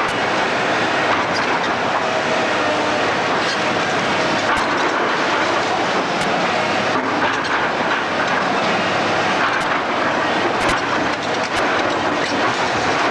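Demolition machinery breaking up a building: a steady heavy rumble and clatter of crushing and falling rubble, with several sharp cracks scattered through it.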